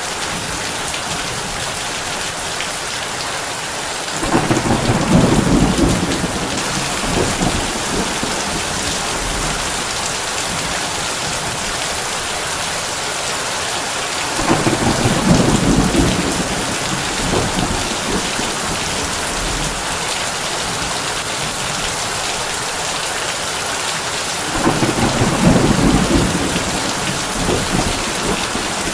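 Steady heavy rain on a tin roof, with three rumbles of thunder about ten seconds apart, each lasting a couple of seconds.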